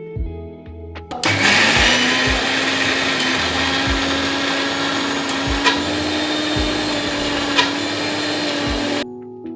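Electric kitchen mixer grinder running at speed for about eight seconds, starting about a second in and cutting off suddenly near the end, with soft background music underneath.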